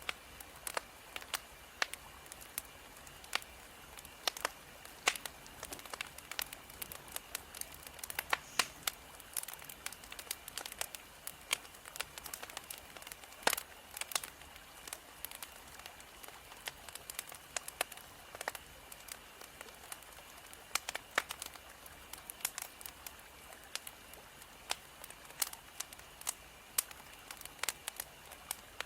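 Burning firewood crackling: irregular sharp pops and snaps, several a second, over a steady soft hiss.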